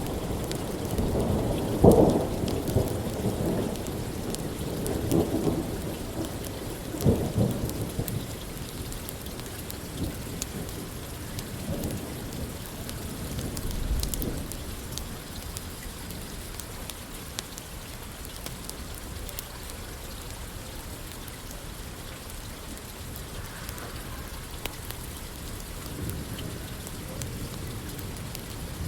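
Steady rain falling, with rolling thunder that swells several times in the first half and again near the end, the loudest about two seconds in. Small sharp ticks are scattered through it.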